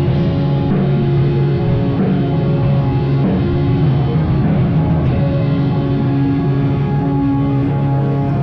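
Live rock band playing an instrumental passage, with drums under held, sustained notes.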